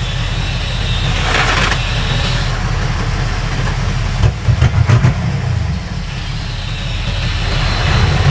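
Heavy diesel earthmoving machinery running with a steady deep engine rumble. There is a short hiss about a second in and a few quick knocks near the middle.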